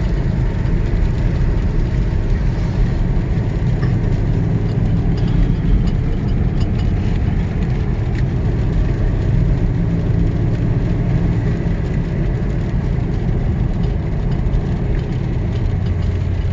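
Truck engine running at a steady low drone with tyre and road noise while driving, heard from inside the cab.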